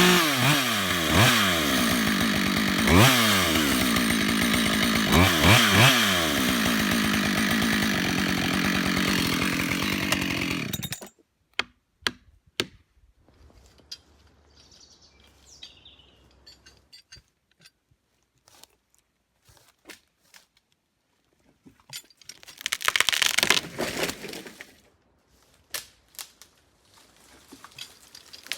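Husqvarna 572XP two-stroke chainsaw running at high revs, its pitch dipping and recovering several times, then running steadily before it cuts off abruptly about eleven seconds in. Scattered clicks follow, and about twelve seconds later there is a burst of crunching, rustling noise lasting a couple of seconds.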